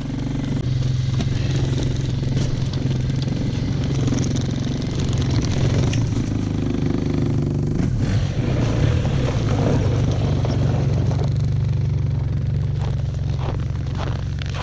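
Four-stroke engine of an Arctic Cat Norseman 3000 snowmobile running under way. Its note changes about halfway through, and a few knocks sound near the end.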